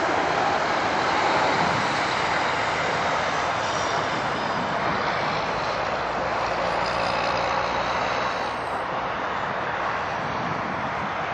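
Jet airliner's engines roaring steadily with a faint high whine, the noise slowly fading as the aircraft moves away.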